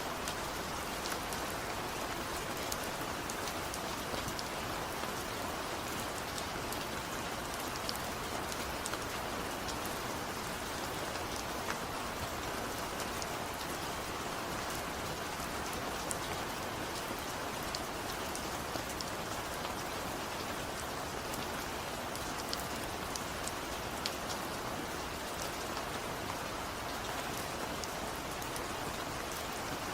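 Steady rain falling, an even hiss with scattered sharp drip ticks of individual drops striking a surface.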